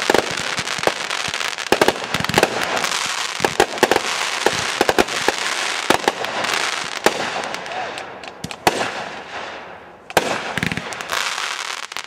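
Consumer aerial firework cakes firing: a rapid string of sharp bangs from bursting shells over a steady hiss. The barrage thins out and dips about ten seconds in, then picks up again near the end.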